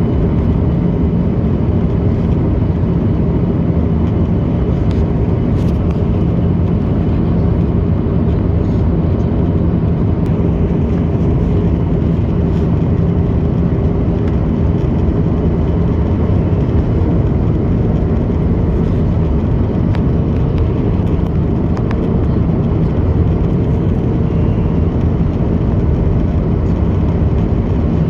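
Steady cabin noise of an airliner in flight, jet engine and airflow noise with a low steady hum, as the plane descends toward landing.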